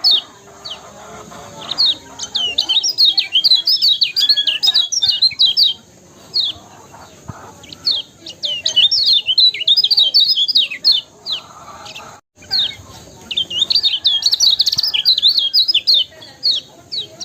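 Kecial kuning songbird singing in fast, chattering bursts of high chirps, several phrases of a few seconds each with short pauses between them.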